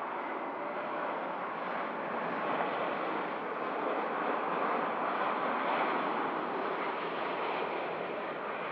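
Jet airliner engines heard at an airport: a steady rushing noise without a clear tone, swelling a little midway and easing toward the end.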